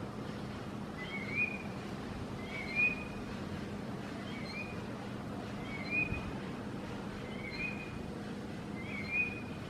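A chonte songbird repeating a short, rising whistled note about every second and a half, six times, over a faint steady low hum.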